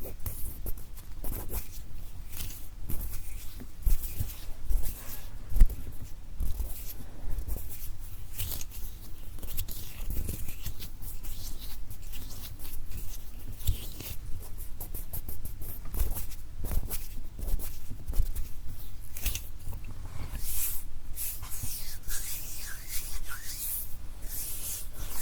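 Close-miked hand sounds: skin rubbing and light finger taps in an irregular run of soft clicks and thumps, with a denser stretch of rubbing near the end.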